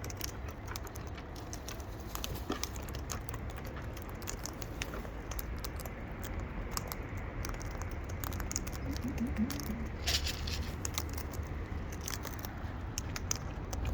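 Wild birds feeding on seed: scattered small clicks, crackles and patter of pecking and husking, over a low steady rumble.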